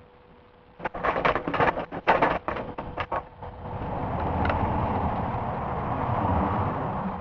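A quick run of clicks and knocks as parts of an electric M4/M16 airsoft gun are handled and taken off. Then, for the last few seconds, a steady rushing noise swells and fades.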